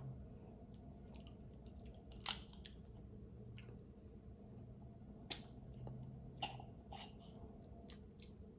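Close-up eating sounds from a seafood boil of king crab, snow crab and shrimp: faint chewing with about five sharp cracks or clicks, the loudest about two seconds in.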